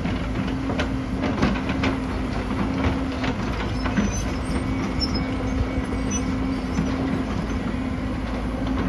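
Hydraulic excavator's diesel engine running steadily with a low hum, and scattered clanks and knocks of the machine and rock, more of them in the first few seconds.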